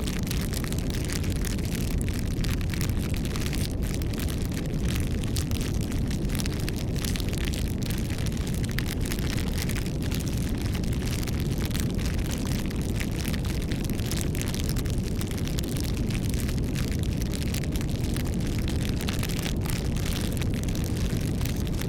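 Campfire burning, a steady low rumble of the flames under continuous crackling and popping of the wood.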